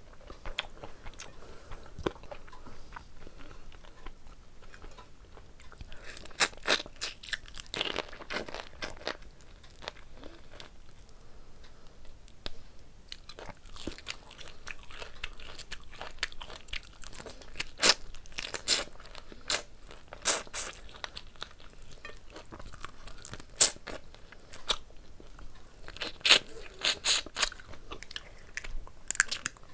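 Close-up eating sounds: chewing with sharp, crunchy bites that come in several clusters, as a curry, rice and prawn meal is eaten by hand.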